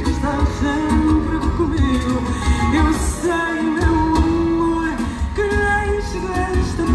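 A live fado band playing, with long held, gently wavering sung notes over a steady low pulse and plucked strings.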